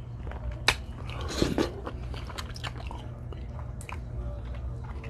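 A person chewing and biting food close to the microphone, wet mouth sounds with a few sharp clicks, one about two-thirds of a second in and another near four seconds.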